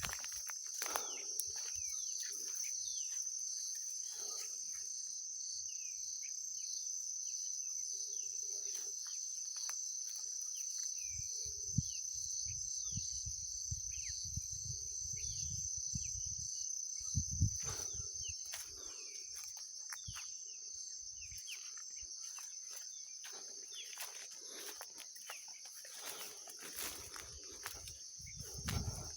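Forest ambience: a steady high-pitched insect drone with short chirping bird calls scattered over it. A stretch of low rumble and thuds sits in the middle.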